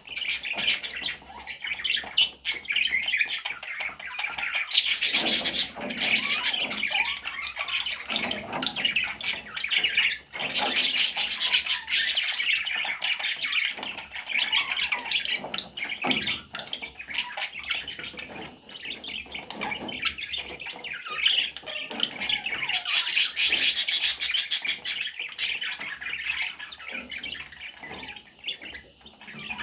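Baby budgerigars calling continuously in high chattering chirps, with louder harsh rasping stretches about five, eleven and twenty-four seconds in.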